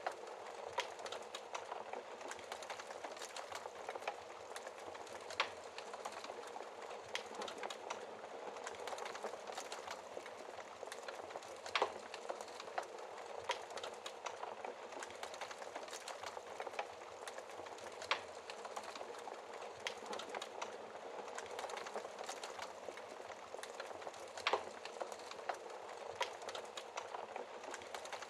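Log fire crackling, with irregular sharp pops and snaps, a few louder than the rest, over a steady hiss of rain.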